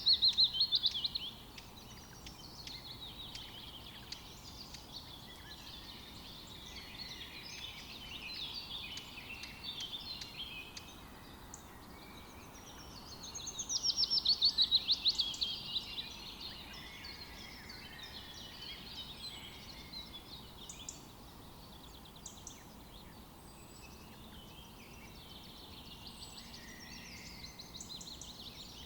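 Several songbirds chirping and singing over a steady faint background hiss. A loud, rapid trill of repeated notes sounds right at the start and again about halfway through.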